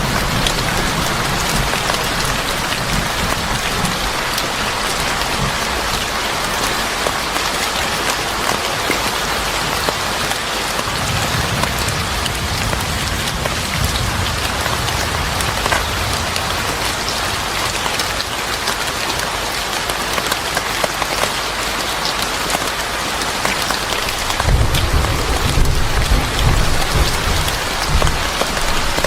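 Steady heavy rain pattering. Low rolls of thunder rumble at the start, again around the middle, and once more near the end.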